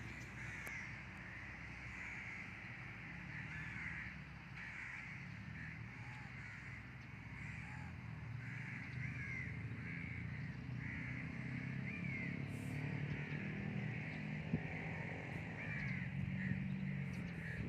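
Birds calling over and over, about once a second, above a steady low rumble.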